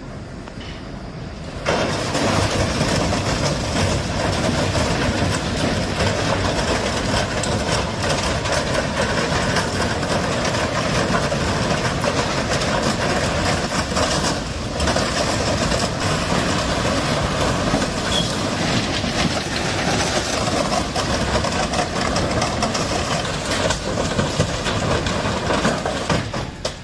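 A train running past, loud and steady, starting suddenly about two seconds in.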